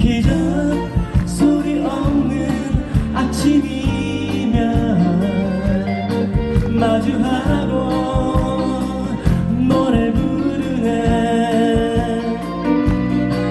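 Live band playing a soft-rock ballad, with drums, bass and guitar and a voice singing over it.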